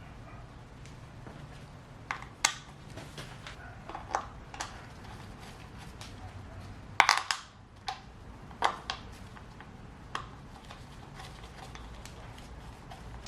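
Scattered metallic clinks and knocks of hand tools and engine parts being handled as a dirt bike's top end is reassembled, with a brief cluster of louder knocks about seven seconds in.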